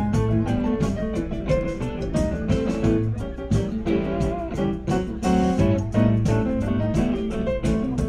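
Rock band playing an instrumental passage with no singing: electric guitar over bass and drums, with a steady beat throughout.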